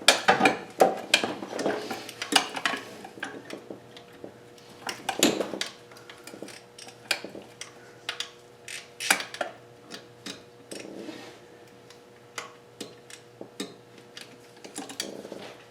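Metal hand tools clicking and clinking irregularly against each other and the engine's metal parts while a wrench works on a stubborn turbocharger bolt.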